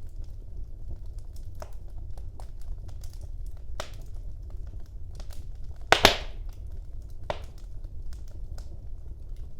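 Wood fire burning in a fireplace: a steady low rumble of the flames with scattered crackles, and a loud pop of the burning wood about six seconds in, with smaller pops near four and seven seconds.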